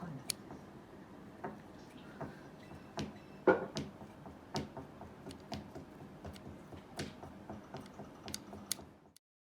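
Irregular clicks and light knocks of small metal door-latch parts being handled, the loudest knock about three and a half seconds in. The sound cuts off abruptly near the end.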